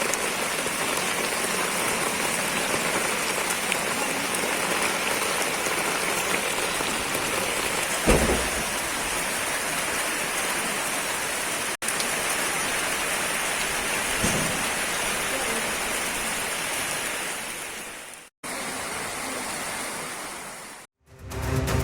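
Heavy rain falling steadily, a dense even hiss, with a short low rumble about eight seconds in and another fainter one a few seconds later. The sound cuts to silence briefly a few times.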